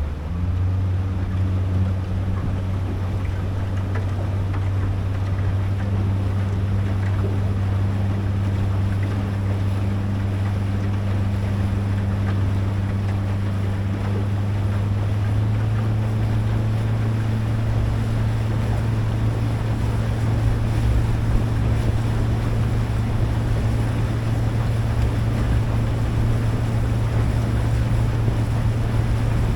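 Boat engine running steadily under way, a low hum whose pitch rises slightly about halfway through, over a constant rush of wind and water.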